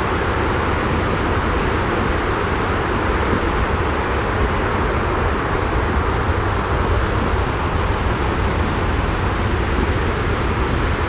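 Steady, unbroken white-noise sleep track with a deep rumble beneath an even hiss.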